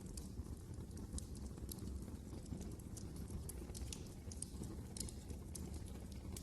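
Wood fire crackling in a fireplace: sharp, irregular pops and snaps over a steady low rumble of burning.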